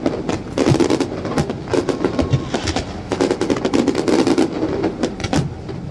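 Fireworks display: rapid, irregular bangs and crackles of bursting shells.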